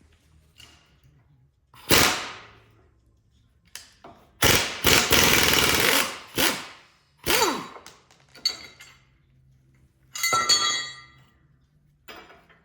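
An impact tool working on the skid steer's attachment-pin hardware, hammering in several short bursts; the longest lasts nearly two seconds. A metallic ringing clank comes near the end.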